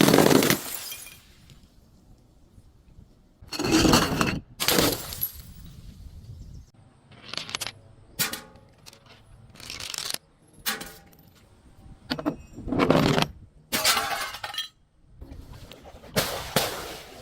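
Glass breaking and being crushed in a series of separate crunches and cracks, some with a short glassy ringing after them.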